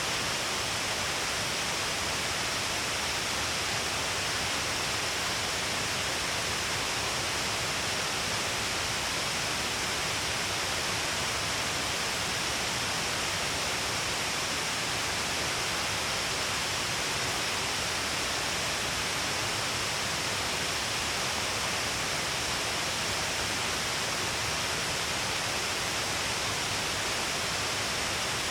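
Shiraito Falls, water spilling in many streams all along a cliff face, making a steady, unbroken rush of falling water.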